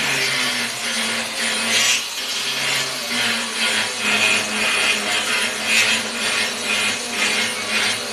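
Grinder working steel in repeated back-and-forth passes, about two strokes a second, its motor tone dipping as it bites. It is cleaning out welds or tacks on the piece.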